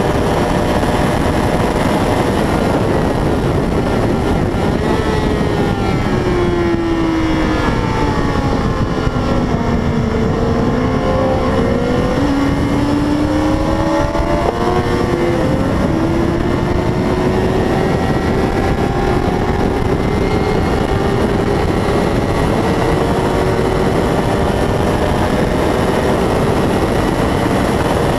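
600 cc race motorcycle engine running hard. Its note drops for several seconds as the bike slows, shifts around the middle, then climbs slowly and steadily as it accelerates again.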